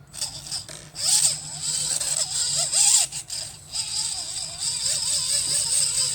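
Redcat Gen7 Sport RC crawler's electric motor and geared drivetrain whirring as it crawls. The pitch rises and falls with short throttle changes, over a steady high whine and some rattling.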